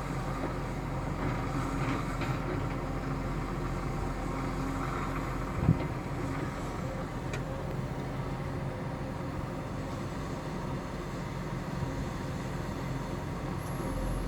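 Heavy diesel construction machinery running steadily, with one sharp thump about six seconds in.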